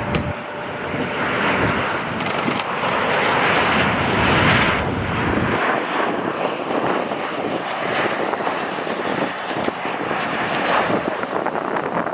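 Jet engine noise of a Boeing 737 airliner passing by. It swells to its loudest about four seconds in, then eases off a little and holds steady.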